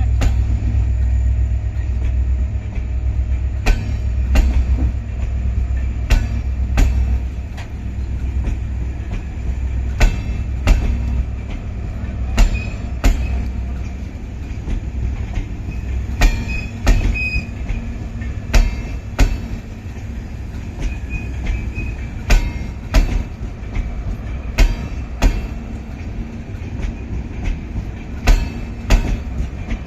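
LHB passenger coaches of an arriving train rolling past, their wheels clacking over rail joints in regular pairs of clicks with a low rumble that eases off about halfway through. A faint wheel squeal comes in now and then.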